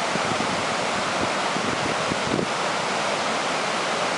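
Floodwater pouring over a creek dam: a steady, even rush of water, with some wind buffeting the microphone.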